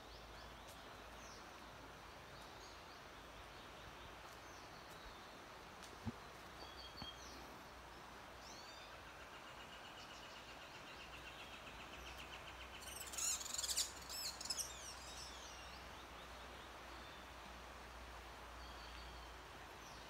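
Birds chirping and singing over a faint steady hiss: short chirps scattered throughout, a rapid trill in the middle, and a louder burst of quick calls about two-thirds of the way through.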